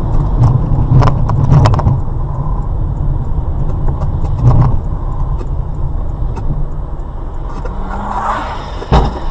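Car driving: a steady low rumble of engine and road noise, with a few sharp knocks or clicks, a cluster of them about a second in and a louder one near the end.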